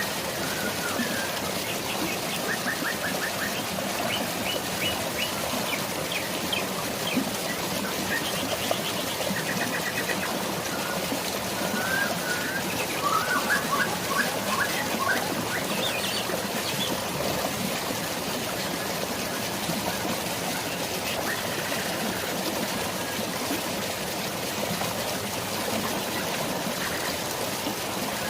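Steady rush of flowing water and light rain, with birds chirping over it in quick trills and repeated short notes through the first half, then only now and then.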